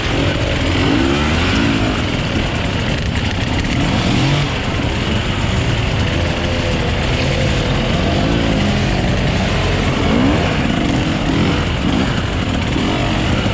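Enduro dirt bike engines revving up and down over and over, their pitch rising and falling every second or two, over a constant low rumble.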